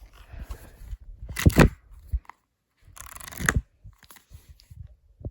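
A person making imitation sound effects: two short raspy, noisy bursts about a second and a half apart, with fainter rustling and small ticks around them.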